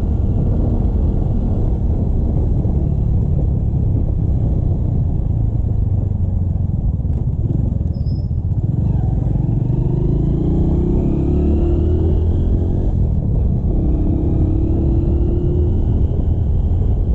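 Motorcycle engine running on the road under heavy low wind rumble, its pitch rising twice as the bike accelerates.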